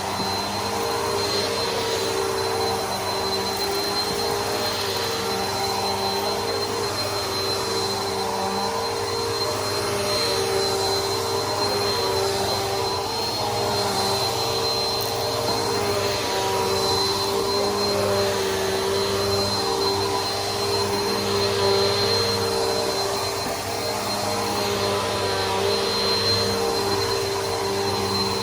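Bissell PowerForce Helix upright vacuum cleaner running steadily, a motor hum with a high thin whine over it, swelling and dipping slightly every couple of seconds.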